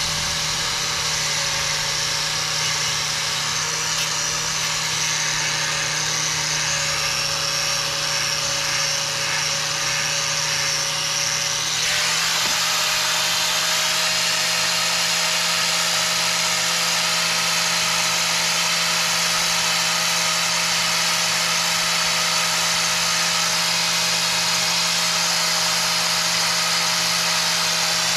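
Angle grinder with a stiff wire cup brush running steadily, scrubbing old undercoat off a machine casting. About twelve seconds in, its motor tone steps up a little and the scrubbing hiss grows louder.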